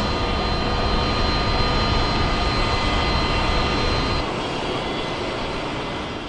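Jet aircraft engines running loud and steady, a deep roar with a high whine over it; the low rumble drops away about four seconds in and the sound fades.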